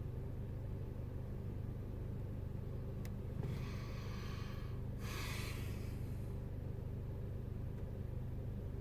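Peugeot RCZ's 1.6 THP turbocharged four-cylinder petrol engine idling steadily while warming up from a cold start. About three seconds in there is a click, then two short bursts of hiss.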